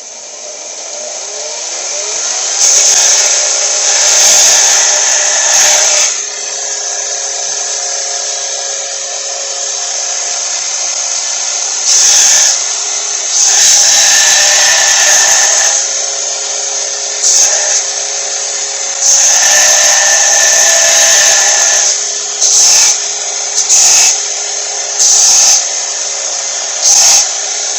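Belt sander motor spinning up over the first couple of seconds and then running steadily, while a small steel spacer cut from an old mower blade is pressed against the belt about nine times, each pass a loud rasp lasting from a fraction of a second to about three seconds.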